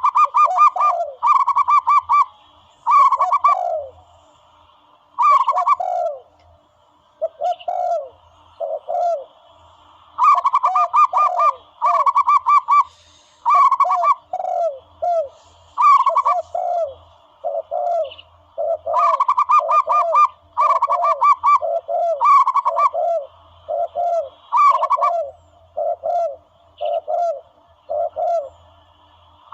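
Recorded dove calls played as a hunting lure: repeated bursts of rapid staccato cooing, each about a second long, with shorter, lower, falling coos in between.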